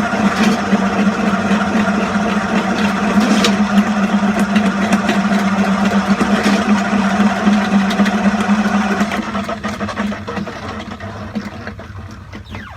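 A machine motor running with a steady hum, dying down from about nine seconds in.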